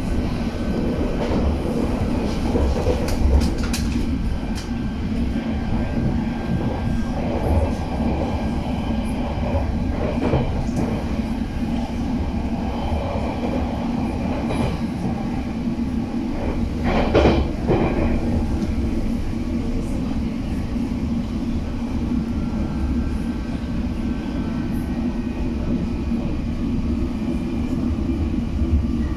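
London Underground District line train heard from inside the carriage while running along: a steady low rumble of motors and wheels, with occasional knocks, the loudest about two-thirds of the way through.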